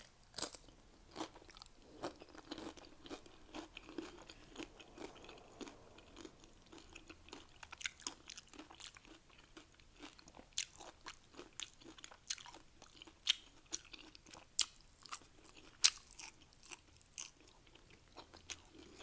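Close-up chewing of Doritos nacho chips, a steady run of small sharp crunches with a few louder bites.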